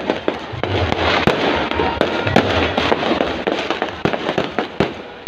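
Fireworks going off in quick succession: a dense run of sharp bangs and crackling, with heavier booms about a second in and again past two seconds.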